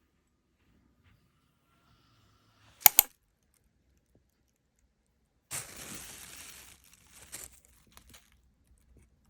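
Two sharp clicks in quick succession about three seconds in, then a couple of seconds of rustling and crinkling with a few small ticks.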